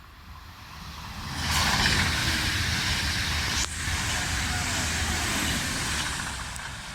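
A train passing by. Its rushing noise builds over about a second and a half, stays loud for about five seconds with a brief dip midway, then fades.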